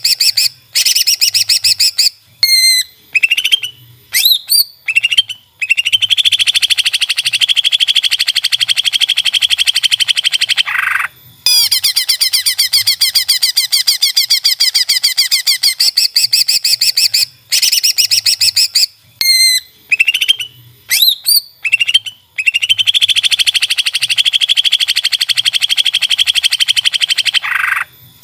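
Greater green leafbird (cucak ijo) singing: long, loud, rapid chattering trills, broken twice by a handful of short, sharply rising whistled notes.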